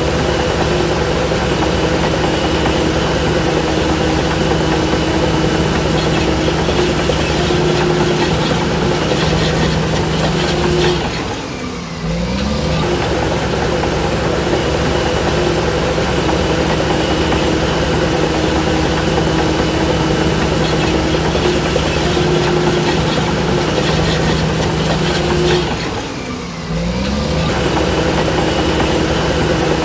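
Heavy diesel engine of a Shantui DH17C3 crawler bulldozer running steadily under load. Twice, about halfway through and again near the end, the engine note briefly drops and then climbs back up.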